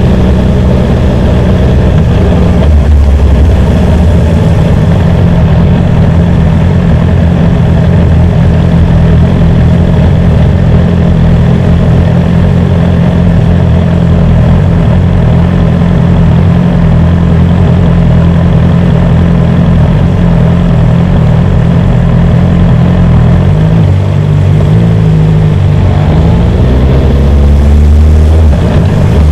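BMW S1000R's inline-four engine running steadily at low revs. Near the end its pitch rises briefly, then settles again.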